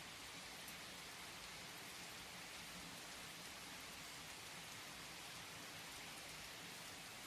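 Steady, even rain falling, with faint scattered drops.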